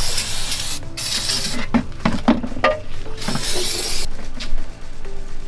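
Short hissing bursts of spray or blown air in the workshop, three in all, with a few sharp metal knocks and clinks of parts and tools between them.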